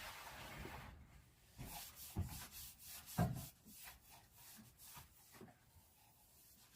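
Rubbing and scraping with a few light knocks and bumps, the sounds of cleaning and handling things inside a caravan; the loudest knocks come about two and three seconds in.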